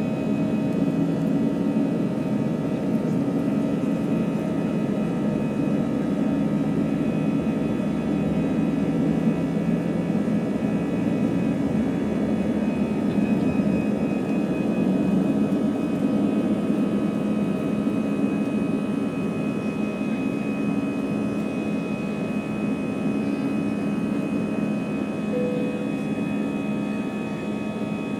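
Airbus A320 jet engines heard from inside the passenger cabin: a steady roar with several fixed whining tones over it, easing off a little near the end.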